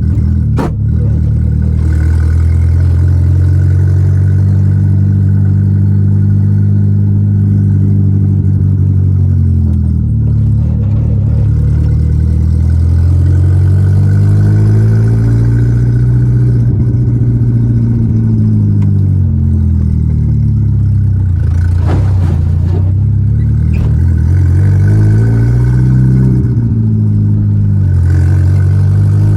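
Volkswagen Gol G4 Rallye's engine while driving: the pitch climbs under acceleration and drops at each gear change, several times over, with lighter stretches of part throttle in between. A couple of short clicks, one near the start.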